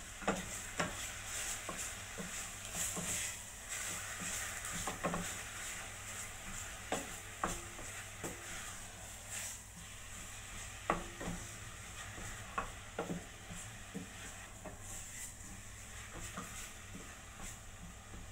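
Minced pork sizzling in a stainless steel pot while a wooden spatula stirs and scrapes it, with irregular knocks of the spatula against the pot.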